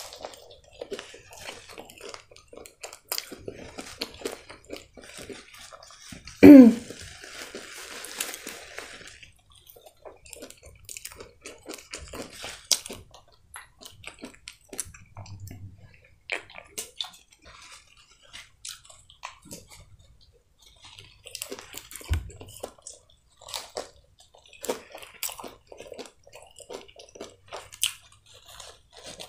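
Close-miked chewing and biting of breaded fried food, with many small wet mouth clicks and smacks. About six and a half seconds in there is one brief, loud sound that slides down steeply in pitch, then a couple of seconds of hissy rustling.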